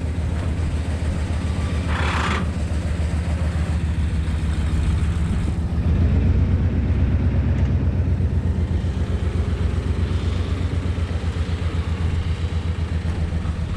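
A vehicle engine idling with a steady low rumble of even firing pulses, swelling a little about six seconds in. A short hiss sounds about two seconds in.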